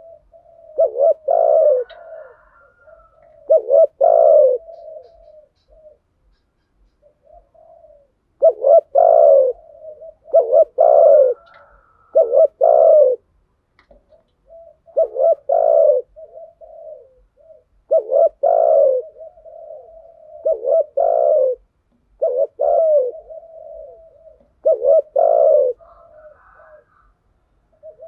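Spotted doves cooing: phrases of two or three loud, low coos repeated every two to three seconds, with softer coos trailing between them.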